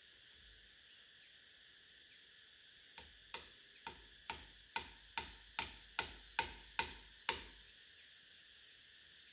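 A run of about eleven sharp knocks, a little over two a second, growing louder, each with a brief ringing after it.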